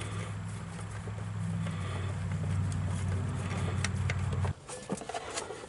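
A low, steady mechanical hum that grows louder and rougher about two seconds in and cuts off suddenly near the end, followed by a few light clicks.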